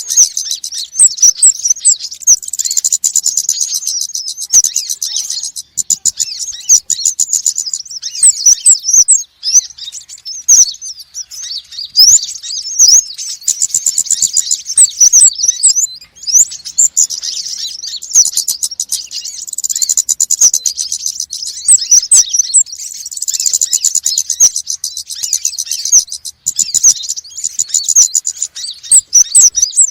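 Small sunbirds, the konin and wulung (Indonesian 'kolibri'), calling excitedly: a dense, continuous stream of high, quick chirps and trills. This is the agitated 'ribut' calling used as a lure sound.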